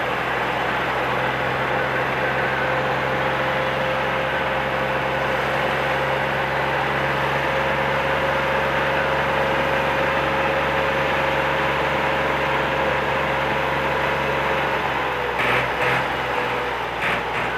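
Tractor engine running steadily at an even speed, with a low hum and a thin steady whine. A few short knocks or rattles come near the end.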